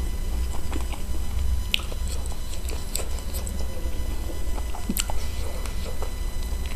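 A person chewing and biting spicy chicken feet close to the microphone, with scattered wet smacks and sharp clicks, over a steady low hum.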